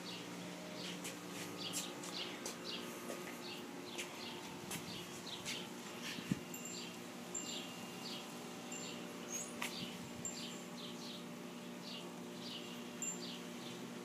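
Small birds chirping outdoors: short high chirps repeating about twice a second, over a steady low hum.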